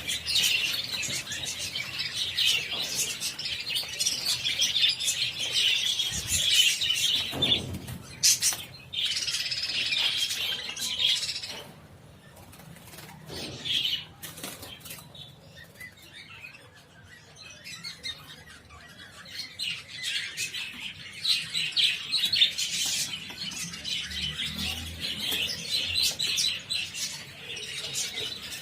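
A flock of budgerigars chattering and chirping, with wing flapping. The chirping is dense, eases off for several seconds in the middle, then picks up again.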